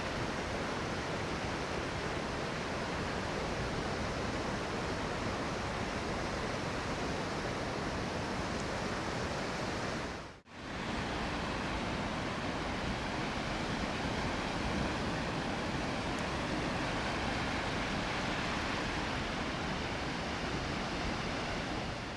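Steady wash of Gulf of Mexico surf breaking on the beach, mixed with breeze. It drops out briefly about ten seconds in, then carries on unchanged.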